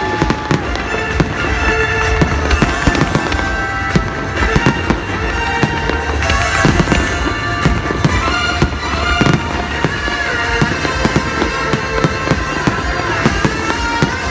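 Fireworks bursting: a dense run of bangs and crackles, several a second, with music playing loudly underneath.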